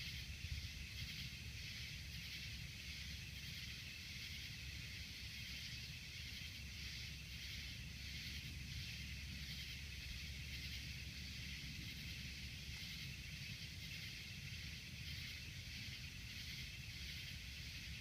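Steady outdoor night-time ambience: a high, faintly pulsing hiss like insects calling, over a steady low rumble, with no distinct thunderclap.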